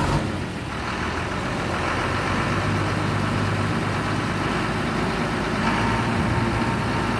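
A Leyland truck's engine running steadily, with a low, even hum that grows slightly fuller about two seconds in.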